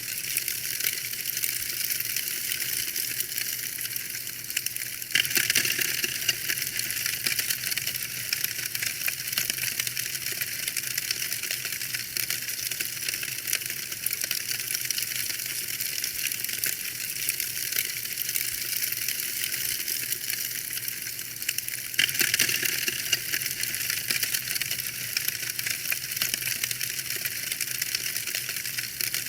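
Wood fire crackling, a dense run of small pops and snaps. It abruptly grows louder and brighter about five seconds in and again about twenty-two seconds in, then settles back each time.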